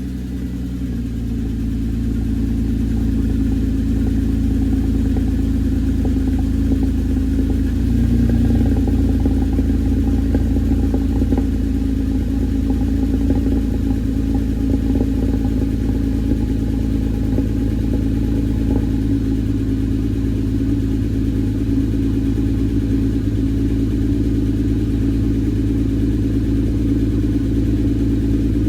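2006 Porsche Cayman S's 3.4-litre flat-six with a Borla exhaust, idling steadily just after a cold start. The note changes briefly about eight seconds in.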